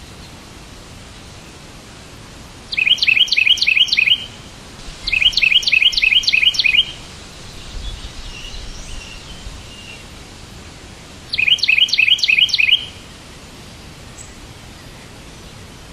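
A songbird singing three quick trills of rapidly repeated chirps, about five notes a second, each trill lasting about a second and a half, with fainter chirps between the second and third. A steady hiss runs underneath.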